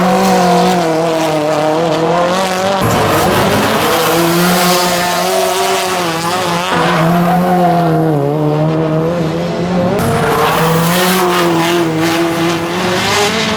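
Nissan SR20 four-cylinder engine of a drift car held at high revs, the pitch wavering and dropping briefly a few times, with tyres squealing over it.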